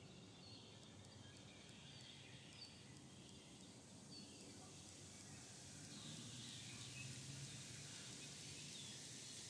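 Quiet woodland ambience: a faint steady hiss with a few brief, faint bird chirps scattered through it.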